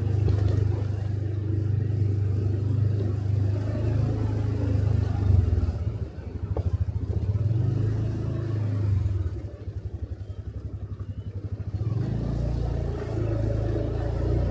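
Motorcycle engine running during a ride, with a steady low rumble. The level dips briefly about six seconds in, then again from about nine and a half to twelve seconds in, where the engine's even low pulsing beat comes through before it picks up again.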